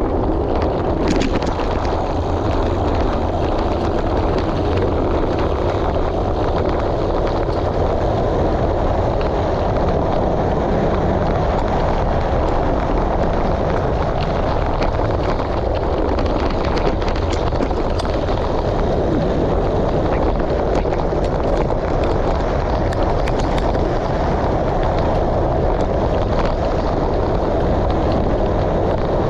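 Steady wind noise on the camera microphone of a moving rider, with faint scattered ticks that fit tyres on gravel and bike rattle.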